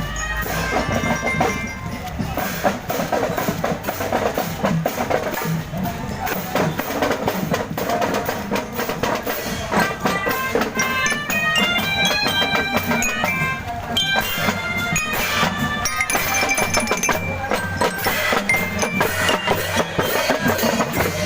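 Marching drum band playing: drums keep a steady beat while mallet bells play a melody, heard most clearly about ten to fourteen seconds in.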